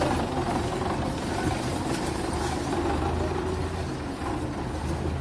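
Belarus tractor's diesel engine running steadily with an even low drone.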